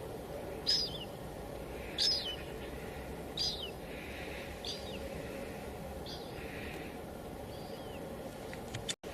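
Steady hiss of light drizzle falling, with a bird calling over it: six short, downward-sliding chirps about every second and a quarter, growing fainter. The sound cuts out for an instant near the end.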